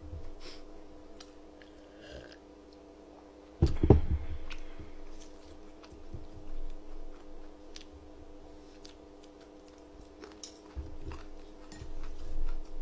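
A person eating close to a desk microphone: chewing and mouth sounds with light clicks from chopsticks, and one heavy thump about four seconds in, over a steady low hum.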